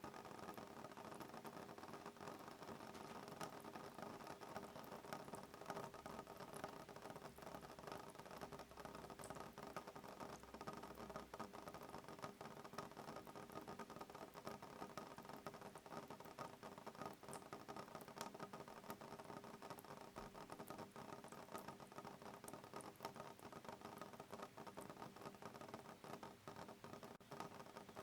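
Soft rain pattering on a window pane: a faint, steady patter of many small drops ticking on the glass.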